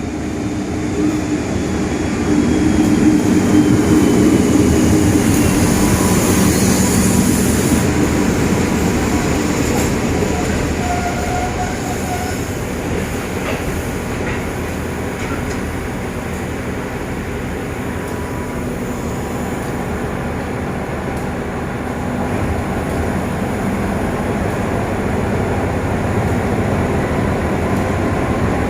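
State Railway of Thailand GEA-class diesel-electric locomotive 4538 hauling a train along the track, its diesel engine and the wheels on the rails making a steady loud drone. The sound is loudest a few seconds in, eases off in the middle and builds again near the end.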